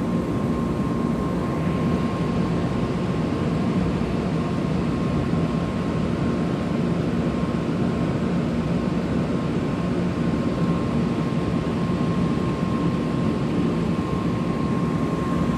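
Steady, unchanging low hum and rumble of a Shinkansen station platform, with a faint constant high tone above it. It does not rise or fall, so no train is heard pulling away or arriving.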